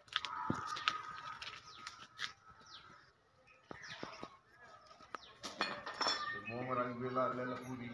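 Several birds chirping and calling, with quick downward-sliding chirps scattered throughout. A person's voice comes in about six and a half seconds in.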